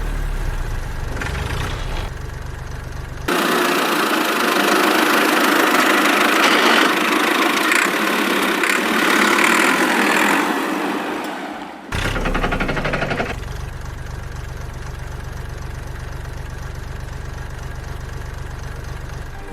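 Tractor engine sound running at a steady low idle. For about nine seconds in the middle it gives way to a louder rushing hiss with no engine underneath, and the idle returns about twelve seconds in.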